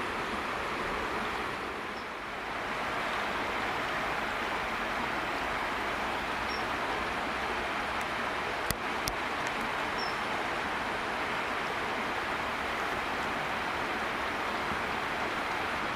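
Steady rush of a flowing river, with two sharp clicks about half a second apart near the middle.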